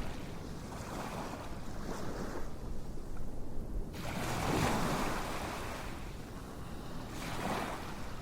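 Ocean waves washing in and drawing back in repeated swells, the largest about halfway through.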